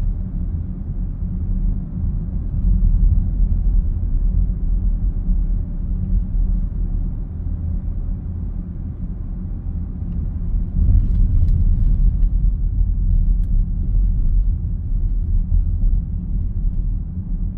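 Low droning road rumble inside the cabin of a BMW X7 driving on Hankook Dynapro HPX tyres: the 'woooong' hum the owner complains of. With the suspension bearings, tyre noise and alignment all checked without fault, he wonders whether it is road noise or a resonance. The drone swells about 3 seconds in and again about 11 seconds in.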